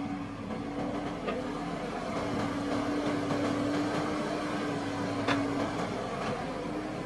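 Engine of a Kubota rice-harvesting machine running steadily at constant speed, a continuous pitched drone, with a sharp click about a second in and another about five seconds in.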